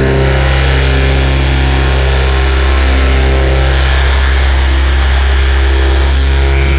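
Paramotor engine and propeller running steadily at constant throttle.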